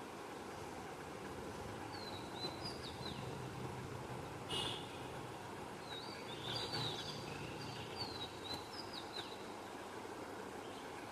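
Small birds chirping in short bursts of quick up-and-down notes, over a steady background hum and hiss.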